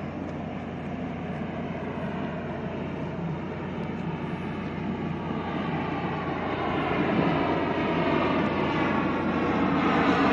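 P-3 patrol aircraft's four turboprop engines droning as it approaches, growing steadily louder.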